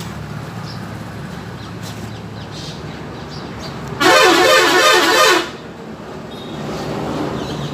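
A vehicle horn sounds once, a single blast of about a second and a half starting about four seconds in, over a steady low hum.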